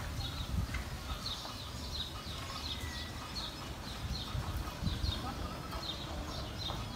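A bird chirping over and over, short high calls about two a second, over a low rumble.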